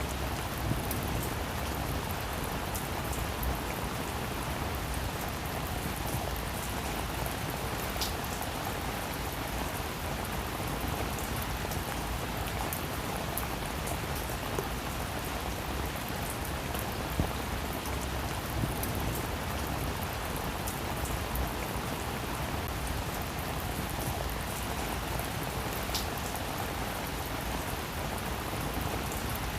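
Steady rain falling on a roof, a dense even patter of drops with occasional louder single drips.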